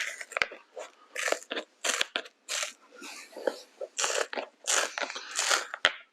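Glued layers of a shoe sole being pried and peeled apart by hand: a run of short crackling, tearing sounds, roughly two a second, with a few sharp clicks.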